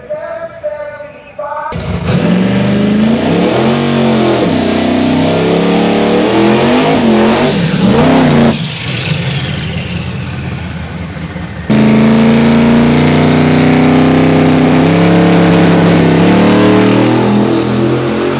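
Twin-turbo Corvette drag car's engine revving hard, its pitch swinging up and down, then running loud and steady. The sound breaks off and changes abruptly twice, and a voice is heard briefly at the very start.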